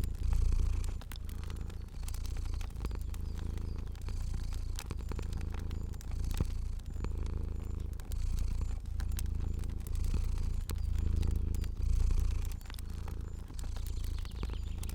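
Domestic cat purring, a low rumble that swells and fades with each breath, about one cycle a second. Fire crackles and pops are scattered over it.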